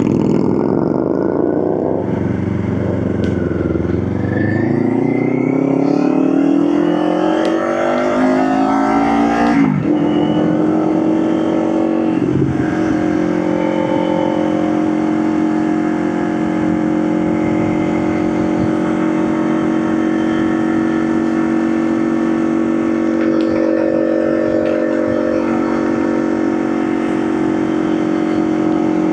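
Motorcycle engine accelerating, its pitch rising steadily for about seven seconds, then falling sharply about ten seconds in. It then runs at a steady cruising note for the rest.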